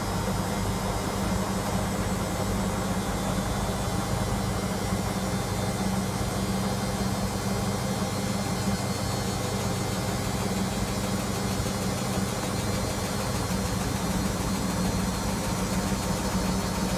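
Electra AWF683 washing machine running a spin, its motor and drum making a steady hum and whirr with no change in speed.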